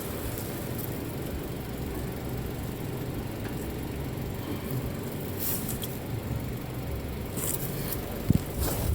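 A vehicle engine idling steadily, with a few light clicks.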